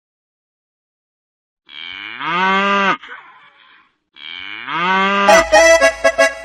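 A cow mooing twice, two long, even-pitched moos about two and a half seconds apart, after a short silence. Bouncy music starts just after the second moo.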